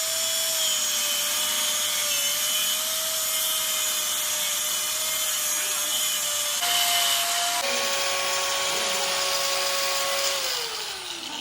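A workshop machine's electric motor running steadily with a hissing cutting or grinding noise. The sound jumps abruptly twice partway through. Near the end the motor's tone falls as it spins down after being switched off.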